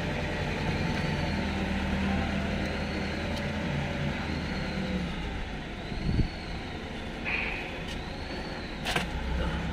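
A motor vehicle engine running steadily, with a few short metallic clicks of tools or bolts about six and nine seconds in.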